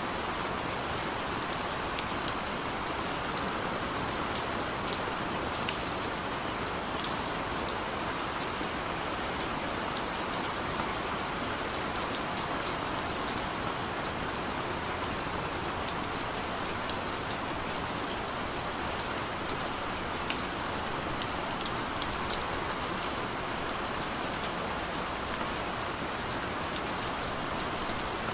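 Steady rain falling, with many fine drop ticks scattered over an even hiss.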